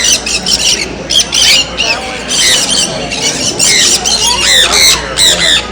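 Many caged birds squawking and chirping at once: a loud, dense chorus of short, overlapping calls, with a murmur of people's voices beneath.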